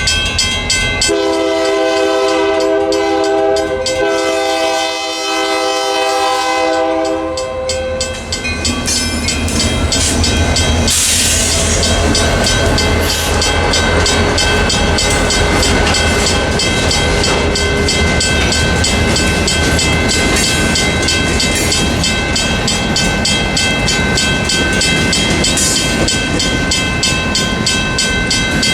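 Diesel locomotive horn sounding a chord from about a second in until about eight seconds, over the steady rapid clanging of a mechanical railroad crossing bell. From about eleven seconds the Union Pacific freight's EMD GP60 and GP40P-2 locomotives pass, their engines rumbling and their wheels clacking over the rails while the bell keeps ringing.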